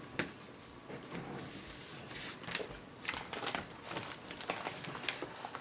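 Close-up eating sounds: chewing and wet mouth noises on steak, with a metal fork clicking and scraping in a plastic takeout container, in a run of short sharp clicks and crackles.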